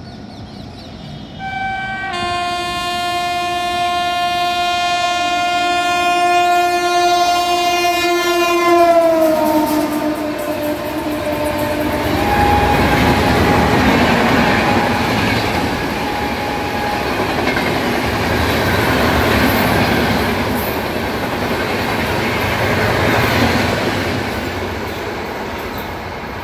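Shatabdi Express running through a station at speed. The locomotive's horn sounds one long blast whose pitch drops about nine seconds in as the engine passes. The coaches then run by with a loud, steady rumble and clatter of wheels on the rails, easing slightly near the end.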